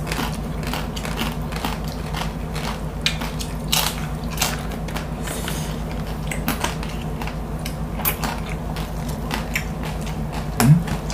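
Close-miked chewing and crunching of crispy lechon (roast pig): irregular crisp crunches and wet mouth sounds over a steady low hum.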